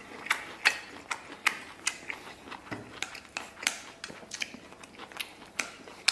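A person chewing a mouthful of rice and braised pork with the lips closed, close to the microphone: a steady run of wet smacking clicks, about two and a half a second.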